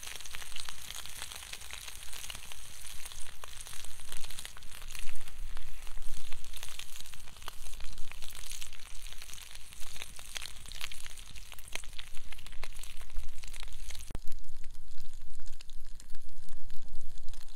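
Sliced meat and cheese sizzling on a hot cast iron griddle pan over a wood fire, with frequent small pops. The sizzle thins out abruptly about fourteen seconds in.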